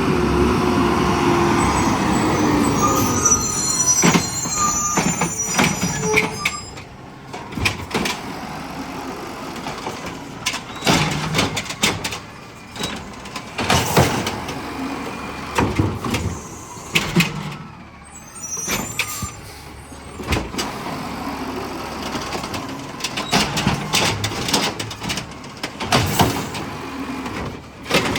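Garbage truck running, its pitch falling as it slows in the first few seconds, with a brief high brake squeal, then a long series of loud bangs and clanks every second or two as it works, typical of a cart being lifted and shaken out into the hopper.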